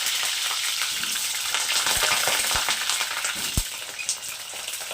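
Chunks of potato frying in hot mustard oil in a kadai, a steady loud sizzle. A few soft knocks come about two seconds in and again near the middle.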